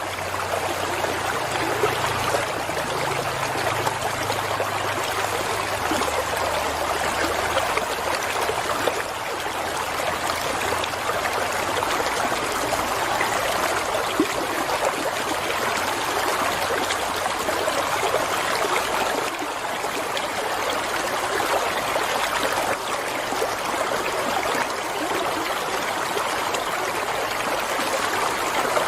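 Flowing water running steadily, like a stream or small cascade, with an even splashing that holds constant throughout.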